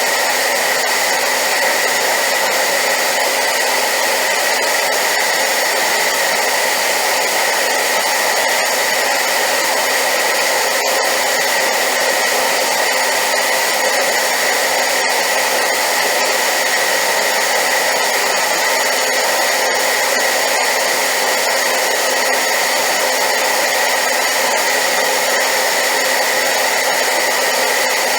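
Hair dryer running steadily at high power, an even rushing hiss of air with a faint steady whine from its motor, unchanging throughout.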